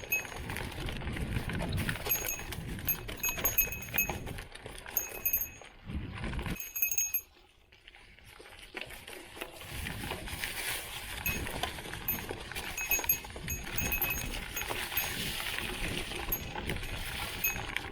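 Mountain bike being ridden over rough ground, with rattling and crunching and a small bell jingling again and again; the sound drops away briefly about seven seconds in, then picks up again.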